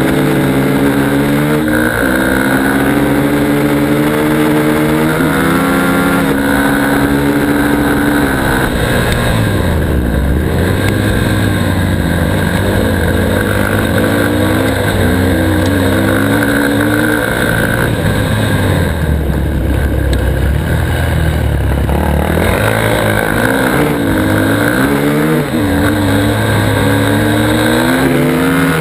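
Dirt bike engine revving hard, climbing in pitch through several gear changes in the first few seconds, then rising and falling again and again.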